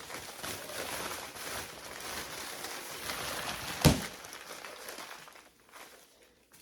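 Rustling and handling of items, with one sharp knock about four seconds in, then quiet.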